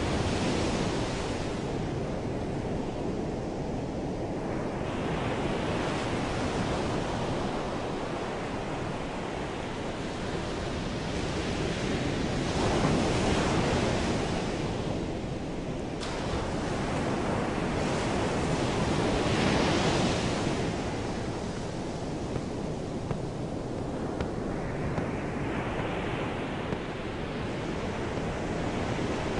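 Ocean surf: waves washing in, a steady rush that swells and eases every several seconds, loudest about halfway and two-thirds through.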